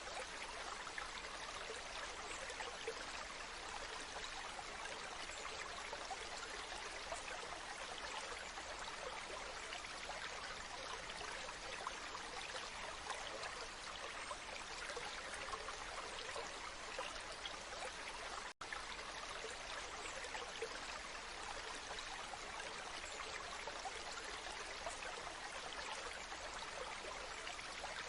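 Waterfall: a steady, even rush of falling and splashing water, with a momentary cut-out about two-thirds of the way through.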